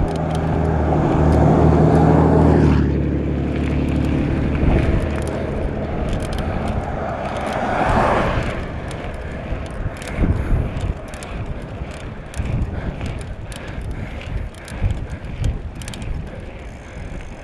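A motor vehicle's engine passes close by in the first few seconds and fades, and a second swell of passing-vehicle noise peaks about eight seconds in. After that there is rough road and wind noise, with the bicycle rattling in quick clicks.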